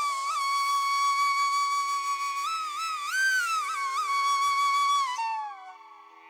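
Flute playing a slow melody over a steady drone: one long held note, ornamented with slides up and down, then a falling glide as it fades about five seconds in.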